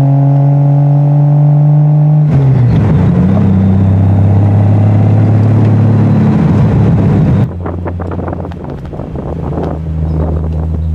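Triumph TR6 straight-six engine with a Monza exhaust, heard from the cockpit while driving. The engine note changes abruptly about two seconds in, and the sound drops suddenly to a quieter engine note about seven seconds in.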